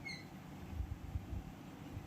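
A short, faint high-pitched animal call right at the start, then a few soft low bumps over a low background rumble.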